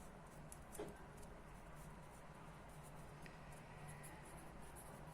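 Near silence with faint scratches of writing and one soft tap a little under a second in.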